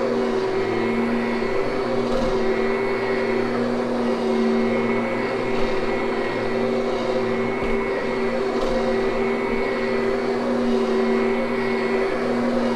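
Kirby upright vacuum cleaner running steadily over carpet, a constant motor hum and whine over a rush of air, during the final vacuuming and grooming of a freshly cleaned carpet.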